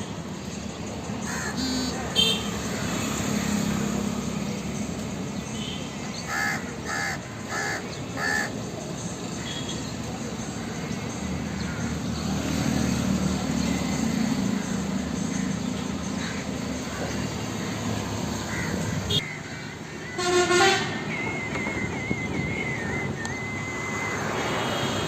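Crows cawing: a run of four short caws about six seconds in and one louder caw later, over a steady background of outdoor noise. A thin high tone, like a distant horn, holds for a few seconds near the end.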